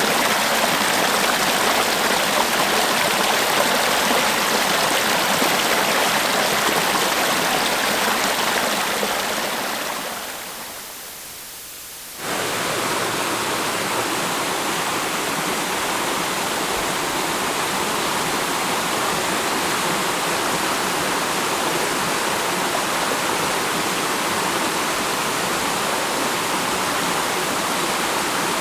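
River water rushing steadily. One recording fades out about ten seconds in, and a second river recording starts abruptly about two seconds later.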